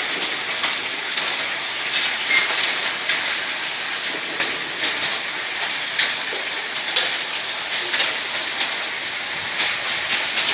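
Hail falling with rain: a steady hiss of the downpour, broken by sharp clicks of hailstones striking hard surfaces, the loudest a little before the last few seconds.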